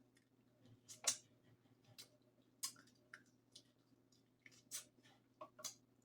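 Crab legs being eaten close to the microphone: a handful of short, sharp cracks and clicks of shell and mouth, the loudest about a second in.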